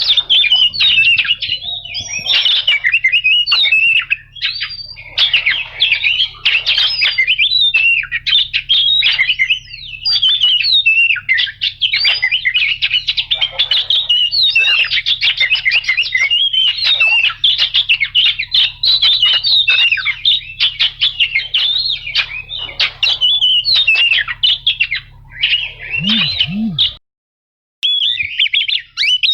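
Oriental magpie-robin (kacer) singing a long, unbroken stream of fast, varied whistles and chattering notes. The song stops abruptly for about a second near the end, then starts again.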